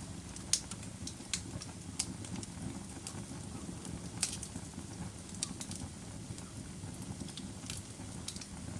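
Wood fire in a fireplace crackling: a steady low rumble of flames with sharp pops and snaps at irregular moments.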